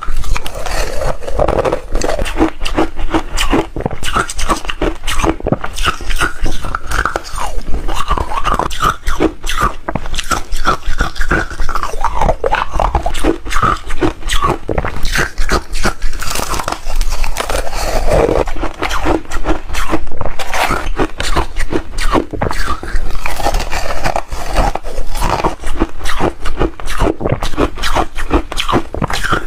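Close-miked biting and chewing of refrigerator ice that has been shaved finer: a dense, continuous run of crisp crunches.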